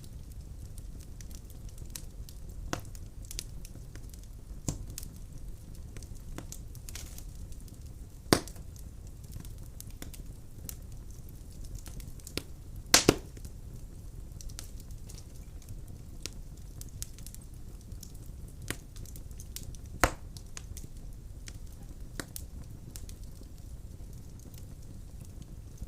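Wood fire burning in a fireplace: a steady low rustle of flames with irregular crackles from the logs, and a few louder pops, one of them a quick double pop about midway.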